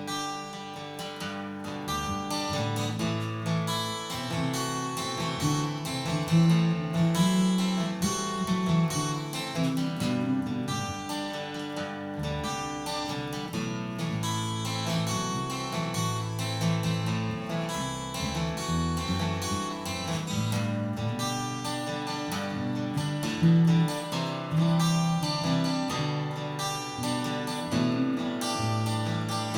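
Instrumental break of a country song: acoustic guitar strummed and picked in a steady rhythm, without singing.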